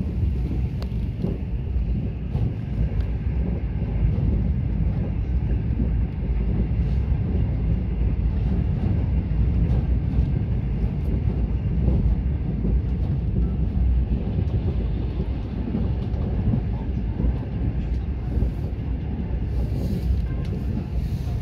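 Steady low rumble of a Mugunghwa-ho passenger train running at speed, heard from inside the carriage: wheels on the rails and the coach's running noise.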